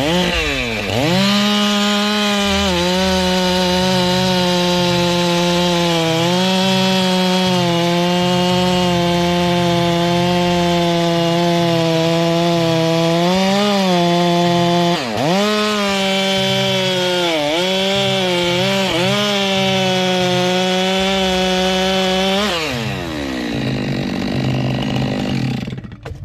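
Stihl two-stroke chainsaw revved up to full throttle about a second in and cutting through umbrella tree wood, its pitch dipping briefly several times as the chain bites, then dropping back toward idle near the end.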